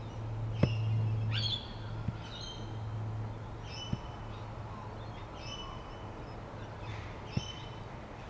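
Birds calling repeatedly, a short chirping phrase of several notes about every second, some starting with a quick downward sweep. Under them runs a low steady hum, strongest in the first second and a half, and there are a few sharp clicks.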